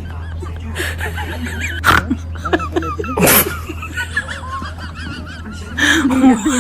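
Birds calling over and over in short, wavering calls, with a steady low hum underneath and two sharp knocks partway through.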